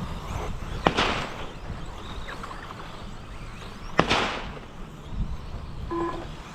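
Two sharp cracking impacts about three seconds apart, each trailing off in a short hiss: 1/10 scale RC stadium trucks hitting the dirt track. A short electronic beep sounds near the end.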